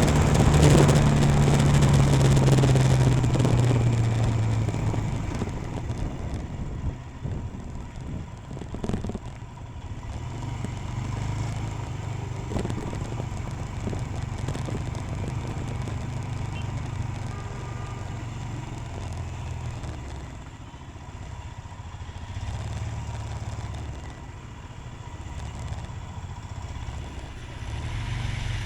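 Royal Enfield Himalayan motorcycle engine running while riding, loudest in the first few seconds and then quieter and steadier. There are a few sharp knocks about nine seconds in.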